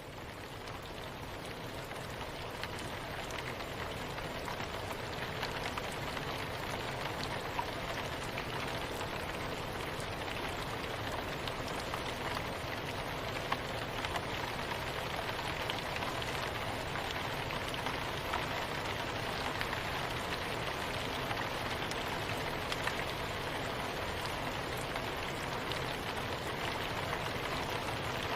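Steady rain falling, an even hiss with scattered individual drops ticking, fading in over the first few seconds.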